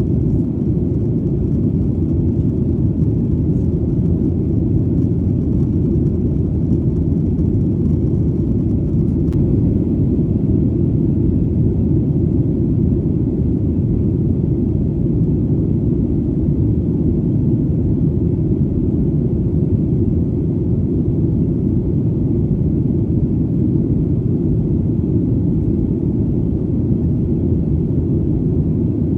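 Airplane engine noise in flight: a steady, deep rumble that holds even throughout.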